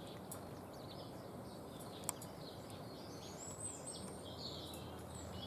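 Small songbirds chirping and singing faintly over a steady outdoor hiss, with a short song phrase about midway, and one sharp click about two seconds in.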